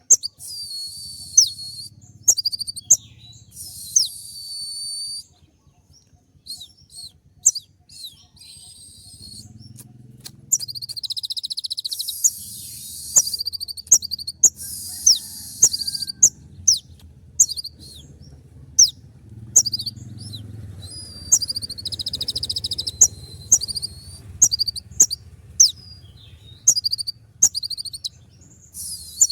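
Brown-throated sunbird (kolibri ninja) singing: a fast series of sharp, high notes, each a quick sweep in pitch, broken by dense buzzy trills lasting a second or two. This is the sharp 'tembak' (shot) song that keepers play to provoke a pet konin into answering.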